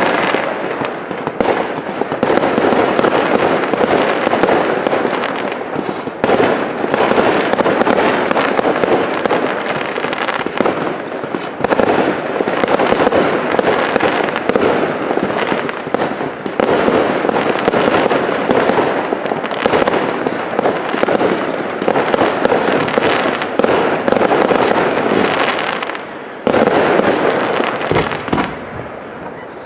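Aerial fireworks bursting in a continuous barrage of many rapid pops. It swells anew every five or six seconds and thins out over the last few seconds.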